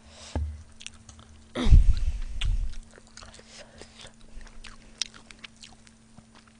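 Close-miked chewing of spicy pork back ribs with melted mozzarella, with many small wet mouth clicks. About a second and a half in there is a brief falling vocal sound with a low thump.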